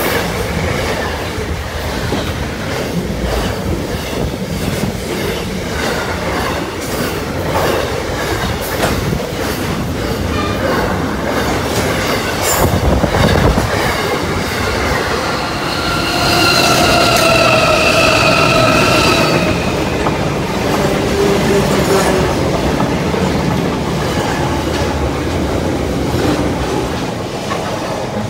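Container wagons of a long intermodal freight train rolling past close by, the wheels clattering over rail joints. About halfway through, a high, steady wheel squeal rings out for a few seconds.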